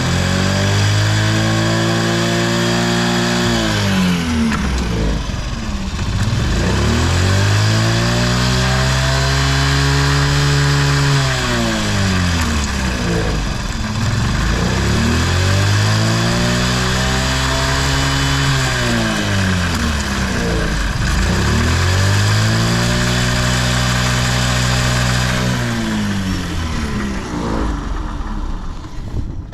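Honda Jorcab (AF53) scooter engine running and being revved up and back down four times, each rev held for a few seconds before dropping back toward idle. It runs smoothly, with no abnormal engine noise, a quiet engine sound.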